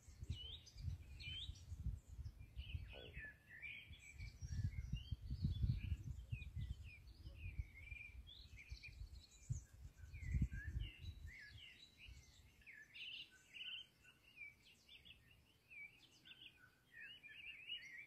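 Songbirds chirping and twittering in many short, quick high phrases, with bouts of low rumbling on the microphone around the start, five to six seconds in and ten seconds in.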